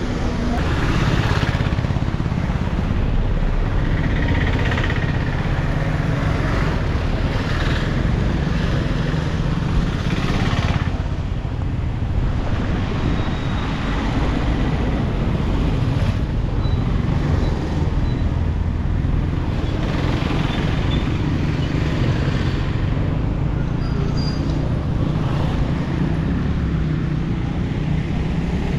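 Street traffic: a steady low rumble of engines, with vehicles passing one after another every few seconds.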